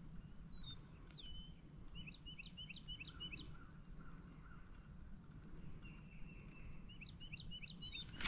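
Faint birdsong: a songbird calls in quick runs of short, high chirps, once about two seconds in and again near the end, over a low, even background of outdoor noise.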